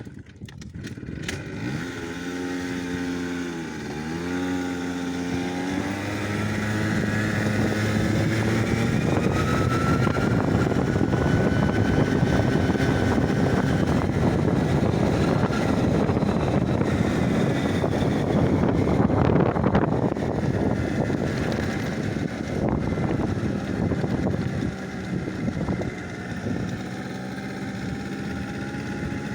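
A motor vehicle's engine running, its pitch dipping and rising in the first few seconds, then giving way to a louder steady rush of driving and wind noise that eases off near the end.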